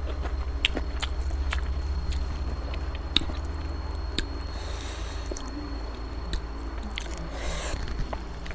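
Close-miked chewing with sharp, wet mouth clicks while eating chicken and rice by hand. Near the end comes squishing as fingers mix gravy into the rice.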